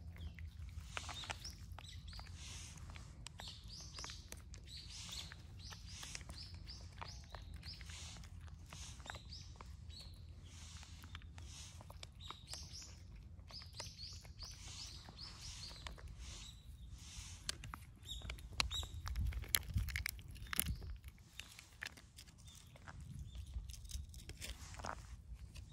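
Small birds chirping in quick runs of short high notes, busiest in the first half and thinning out after, over scattered clicks and crunches of cats eating.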